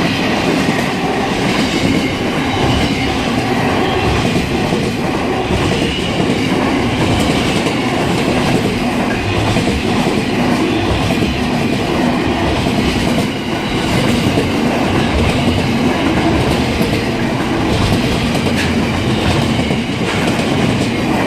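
Freight train passing at close range: a steady, loud rolling noise of wagon wheels on the rails, with light regular clicks.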